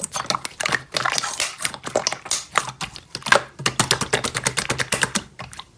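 Slime being played with by hand, making rapid, irregular clicking and crackling sounds that stop just before the end.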